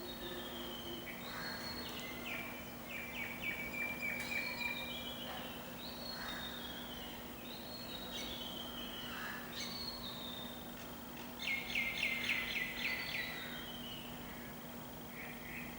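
Bird calls: series of high chirps that step down in pitch, with two quick trilled runs, about three seconds in and near the twelve-second mark, over a steady low hum.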